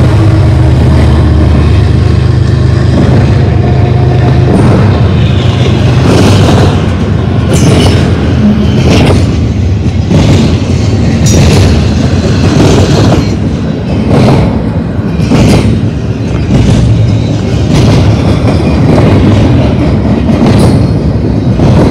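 A freight train's double-stack container well cars roll past close by: a loud, steady rumble of steel wheels on rail, broken by repeated sharp clacks about once a second. The low drone of the diesel locomotive that has just passed fades in the first second or two.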